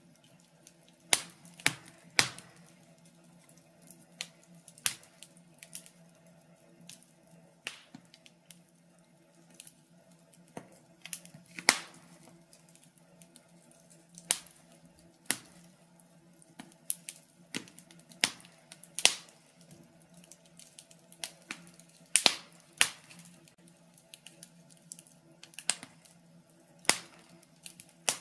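Wood fire crackling: irregular sharp pops and snaps, a second or two apart, some much louder than others, over a faint steady low hum.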